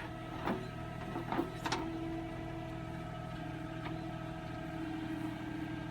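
Tractor diesel engine running steadily, with a few sharp knocks in the first two seconds and another near four seconds.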